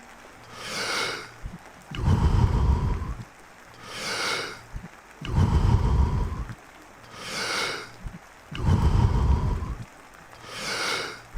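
Deep, rhythmic Wim Hof method power breathing. A forceful breath with a loud, low rush of air alternates with a shorter, higher hissing breath, about one full breath cycle every three and a half seconds.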